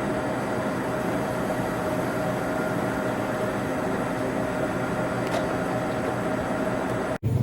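A train running at steady speed, a constant rumble with a faint steady hum over it. It cuts off abruptly just before the end.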